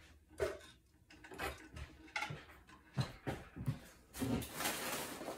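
Household cleaning items being handled, with scattered light knocks and clatter. About four seconds in, a steadier rustling noise sets in.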